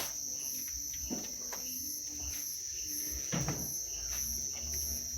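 Crickets trilling steadily in the night, with a higher chirp pulsing about twice a second over it. A sharp click right at the start is the loudest sound.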